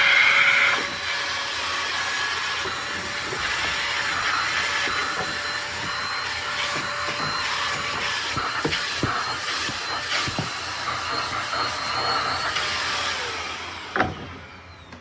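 Intercleaner corded stick vacuum's 400 W motor running steadily with an attachment fitted. Its whine winds down about 13 seconds in, followed by a sharp click as it is switched off.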